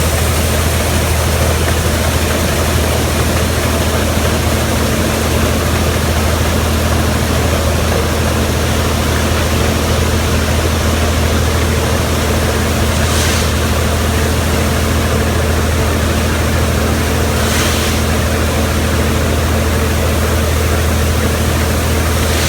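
Large diesel farm machine running steadily under harvest work, a loud constant drone with a low hum and a mass of mechanical noise. Two brief faint hisses come about halfway through and again a few seconds later.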